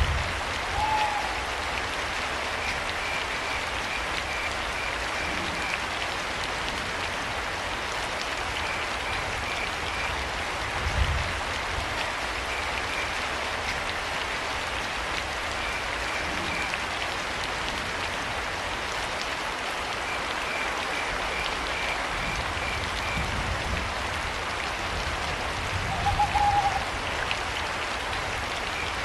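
Steady rain with crickets chirping in short trains of pulses every few seconds. An owl hoots briefly about a second in and again near the end, and a couple of low thuds stand out, the loudest near the end.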